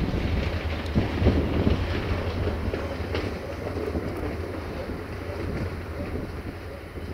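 Passenger train rolling away over station trackwork, its low rumble fading, with a few wheel clacks over rail joints. Wind buffets the microphone.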